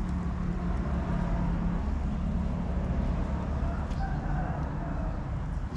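A steady low rumble with faint voices in the background.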